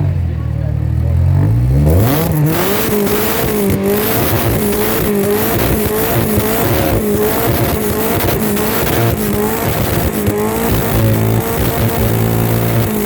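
A car engine revs up about two seconds in and is then held at high revs, its pitch wavering up and down with the throttle over a dense rush of tyre noise, typical of a car drifting. The revs drop away near the end.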